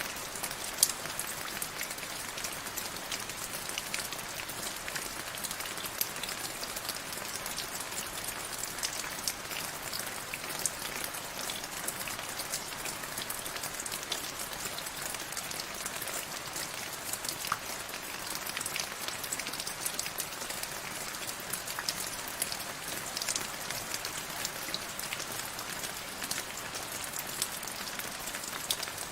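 Steady rain falling, with many individual drops pattering on a surface and an occasional louder drop hit.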